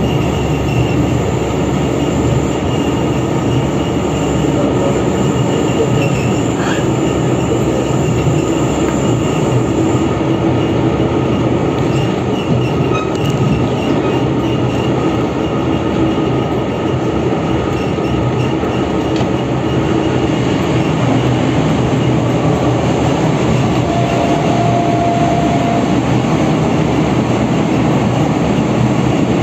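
Passenger train on the move, heard from inside a coach: a steady rumble of wheels on rail. For about the first ten seconds a thin high squeal from the wheels rides over it, and a brief tone sounds near the end.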